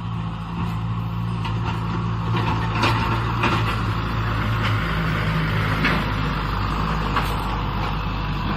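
Kubota M6040 SU tractor's four-cylinder diesel engine running steadily while ploughing, with a few sharp metallic clanks and rattles over the engine hum.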